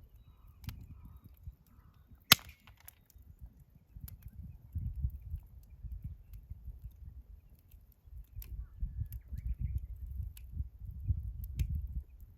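Wood campfire crackling, with scattered sharp pops of burning wood, the loudest a little over two seconds in, over a steady low rumble. Faint crow calls come near the start.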